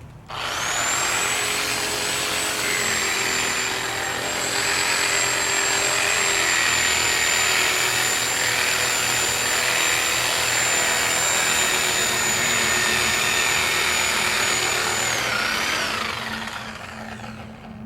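Reciprocating saw running steadily, its blade sawing into grass sod and the soil beneath, with a high motor whine. It starts about half a second in, then winds down with a falling whine about 15 seconds in.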